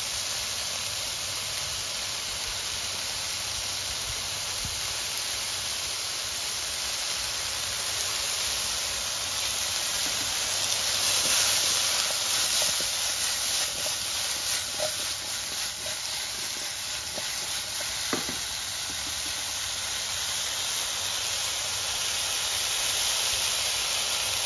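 Cut opo squash sizzling in hot oil in a wok over high heat. The sizzle grows louder and uneven for a few seconds near the middle as the wok is shaken.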